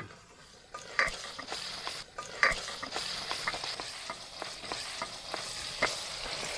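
Diced pork frying in a steel pot with a steady sizzle, stirred with a wooden spoon that knocks and scrapes against the pot. Two sharper knocks come about one and two and a half seconds in.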